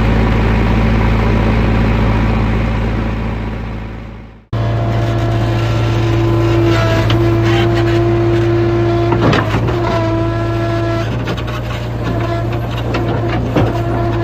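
Vehicle engine sound effect running steadily, which fades out about four seconds in. It then cuts straight to another engine running with a higher whine on top and a few sharp knocks.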